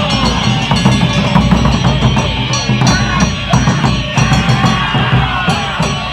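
Live Japanese taiko drum ensemble playing a loud, driving beat, with crowd voices mixed in.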